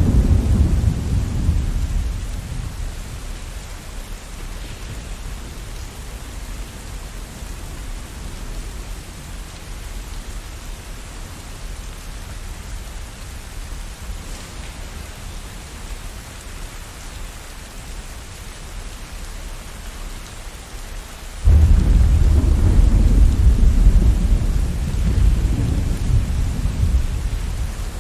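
Thunderstorm: steady rain falling, with a rumble of thunder dying away over the first few seconds, then a sudden loud thunderclap about three-quarters of the way through that rolls on for several seconds and fades near the end.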